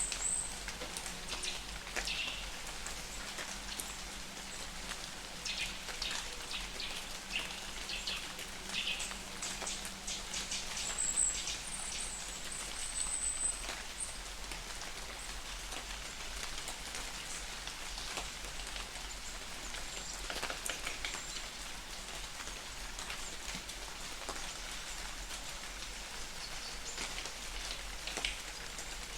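Light rain falling in a forest, a steady patter with individual raindrops dripping close by. A bird gives short, high chirps at the start and again about eleven to thirteen seconds in.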